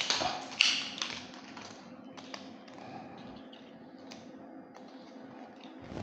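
A few sharp taps and knocks in the first second, then scattered faint ticks over a low, steady hum.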